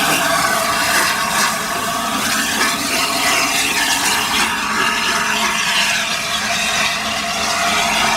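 Steam hissing steadily and loudly from the Peppercorn A1 Pacific steam locomotive 60163 Tornado as it stands with steam up.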